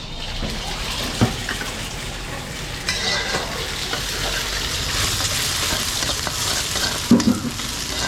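Wide rice noodles and seafood sizzling in a hot wok as they are stir-fried for pad see ew. A spatula knocks against the wok about a second in and again near the end.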